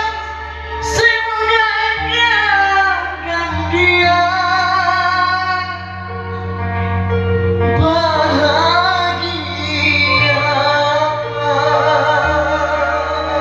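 A woman singing a slow song with wide vibrato over a backing track, whose held bass notes change every couple of seconds.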